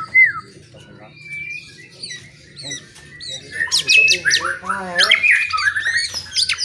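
White-rumped shama (murai batu) singing: a few falling whistles at the start, then about three and a half seconds in a loud, fast run of varied whistles and chattering notes lasting about three seconds.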